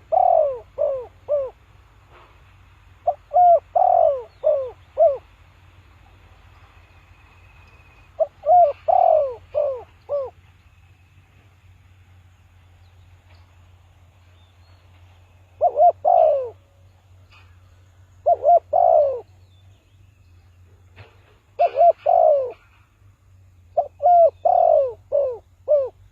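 Spotted dove cooing: about seven short phrases of two to five coos each, coming at irregular gaps of a few seconds, over a faint steady low hum.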